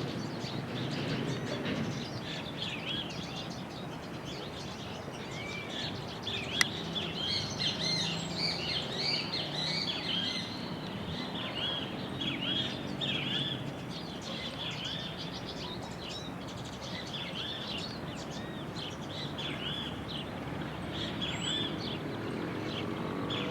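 A chorus of small birds chirping, many short, quick chirps overlapping throughout, over a steady low background rumble. A single sharp click about six and a half seconds in.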